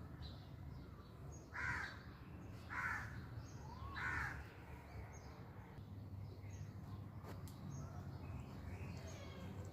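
An animal gives three short, harsh calls about a second and a quarter apart, the last arching in pitch, with faint high bird chirps in the background.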